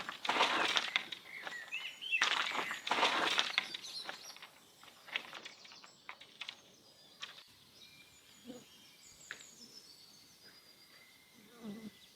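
Two loud bursts of rough, scuffing noise in the first few seconds, then quieter outdoor ambience with scattered small clicks and birds chirping faintly.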